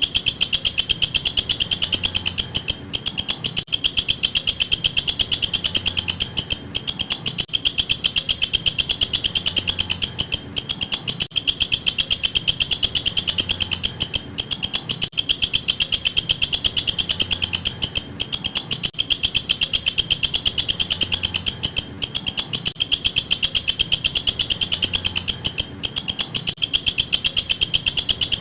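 Walang kecek insect calling: a continuous high-pitched trill of very fast pulses, broken by short pauses every few seconds.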